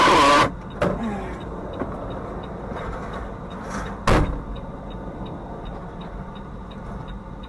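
Car interior with a steady low rumble: a sharp knock about a second in, a louder thump about four seconds in, then a faint regular ticking, roughly two ticks a second.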